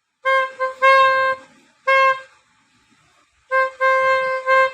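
A horn honking on a single steady note in a run of short and longer blasts, with a pause of about a second after the first group and a longer pause in the middle.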